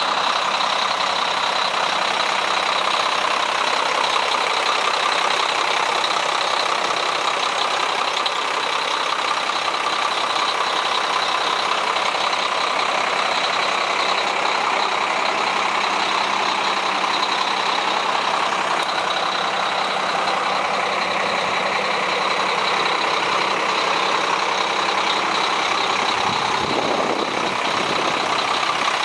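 Diesel engine of a 1999 International 9200 SBA tandem truck tractor idling steadily, with a constant high whine over the engine noise.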